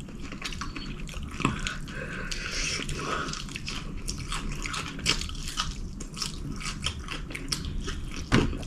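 Close-up chewing of fried chicken wings, with a steady run of small mouth clicks and smacks.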